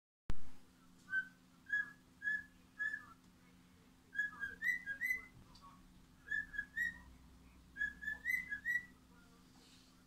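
Pet bird whistling a string of short, high chirped notes, evenly spaced at first and then in quick clusters of two or three. A sharp click right at the start.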